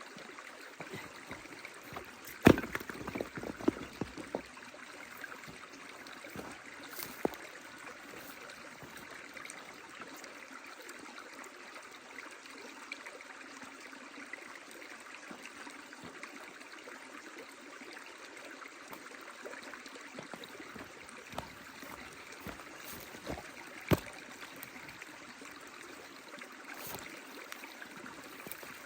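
A stream flowing steadily, with the sharp pops and crackles of a burning wood fire over it: a loud pop about two seconds in with a flurry of smaller crackles after it, and another loud pop near the end.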